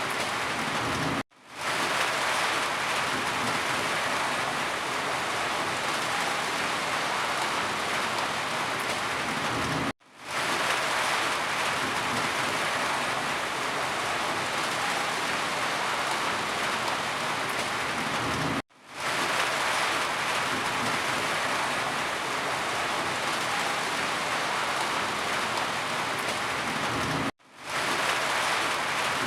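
Steady rain falling on a surface. It cuts out briefly about every nine seconds, four times, and fades back in each time, as a looped recording does.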